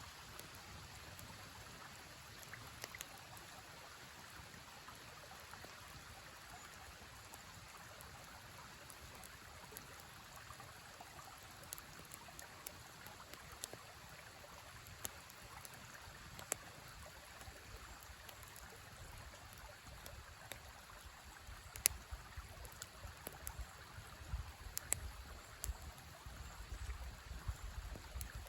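A river flowing steadily, with a campfire crackling in scattered sharp pops that come more often in the last several seconds, along with a low rumble near the end.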